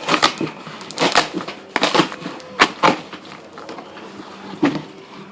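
Cardboard shipping box being opened and handled: irregular crackles and knocks of cardboard and packing being pulled about.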